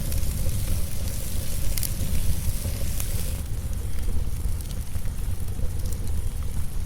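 Wood fire crackling, with a few sharp pops, over a steady low rumble and a hiss that eases off about halfway.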